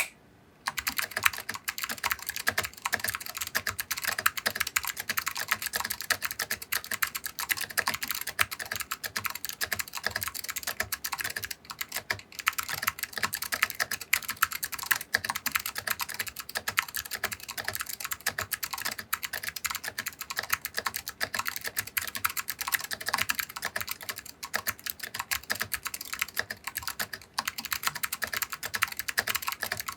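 Continuous typing on a tenkeyless mechanical keyboard with SKCM Blue Alps clicky switches, a stainless steel plate and dye-sub PBT keycaps in a polycarbonate case: a fast, steady stream of sharp key clicks that starts just under a second in.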